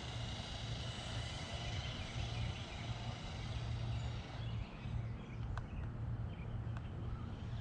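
Electric motor of a Redcat Volcano 18 1/18-scale RC monster truck whining as the truck drives, fading out about four seconds in, over a low steady rumble.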